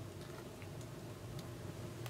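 Firewood burning in a Contura wood stove, giving a few faint crackles and ticks over a steady low hum.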